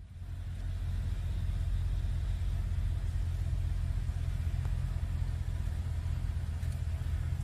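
Car engine idling, heard from inside the cabin as a steady low rumble that swells over the first second and then holds level.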